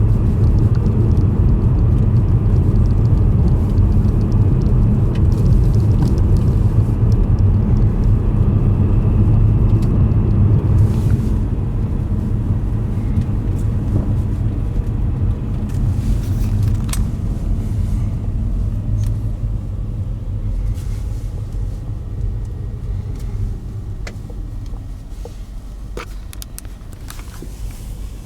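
Joetsu Shinkansen train running with a steady low rumble that holds for about ten seconds and then gradually dies away. A few faint clicks come through in the second half.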